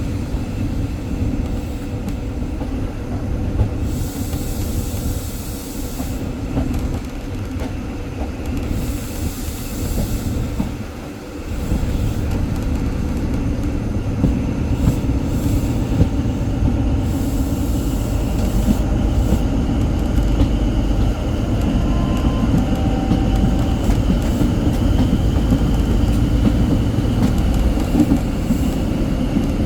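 Train running on the rails behind a Class 43 HST power car: a steady, loud rumble of wheels and engine. Two short bursts of high hiss come a few seconds in, and after a brief dip about 11 seconds in the running sound picks up and stays slightly louder.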